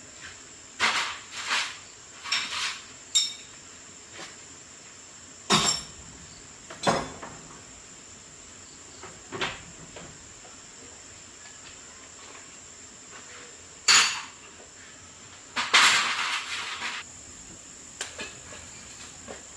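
Hard objects being handled and set down: irregular clinks, clacks and knocks, a few ringing briefly, with a denser rattle near the end. A faint, steady high-pitched whine sits underneath throughout.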